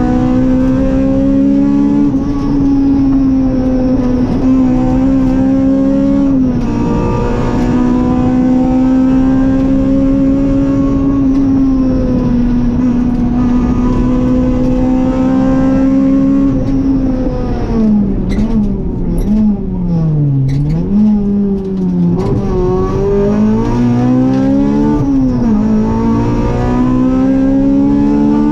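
Rally car engine heard from inside the cabin, held at high revs at a steady pitch with brief dips. About two-thirds of the way through, the revs fall and rise several times, with a few sharp cracks.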